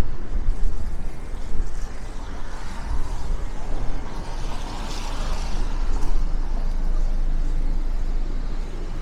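City street traffic, with one vehicle swelling past in the middle, over a steady low rumble of wind on the microphone.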